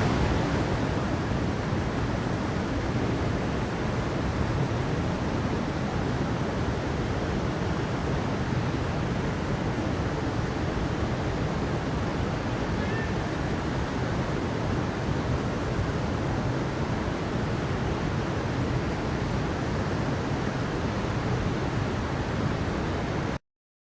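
Steady rushing water, an even roar with no surges or distinct events, which cuts off suddenly near the end.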